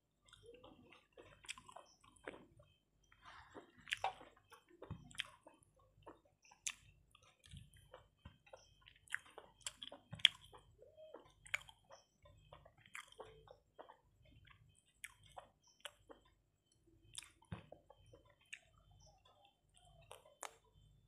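Close-up chewing and mouth smacks of a person eating a rice meal by hand, with soft squishes as her fingers mix rice on the plate. Short, irregular smacks and clicks come every second or so.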